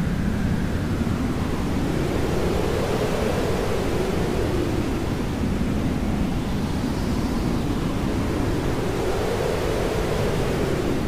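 Steady hair dryer noise used as white noise: a constant rushing hiss whose tone slowly rises and falls about every six seconds.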